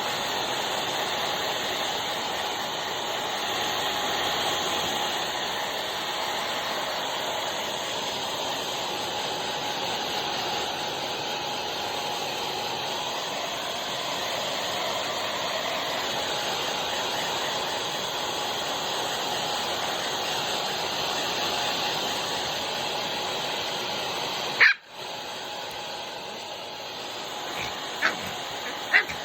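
Hair dryer blowing steadily on a Pomeranian, cutting off abruptly near the end, followed by a few short high-pitched yips from the dog.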